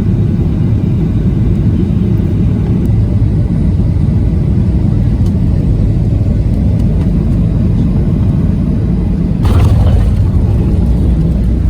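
Steady, loud low rumble of a moving vehicle, with a brief louder rush about nine and a half seconds in.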